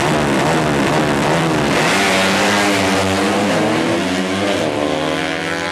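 Four-stroke 200cc moped drag bike engine revving. For the first couple of seconds the throttle is blipped repeatedly, so the pitch rises and falls again and again. It is then held at a higher, steadier pitch and eases off near the end.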